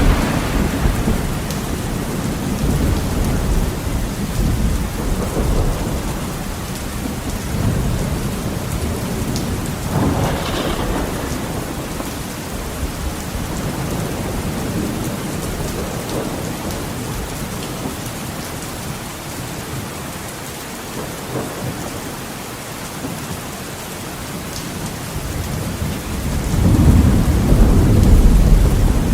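Heavy rain falling steadily on a window, with thunder: a crack and roll about ten seconds in, and a loud, low rumble building near the end.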